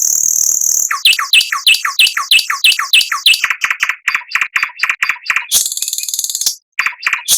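Songbird singing: a high buzzy trill, then a fast run of repeated whistled notes at about five a second, then high buzzy trills again near the end. It is a recorded masteran song used to train caged songbirds.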